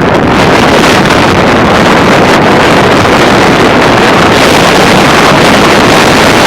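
Strong windstorm gusts of 40 to 60 mph buffeting the microphone: a loud, steady, unbroken roar of wind noise.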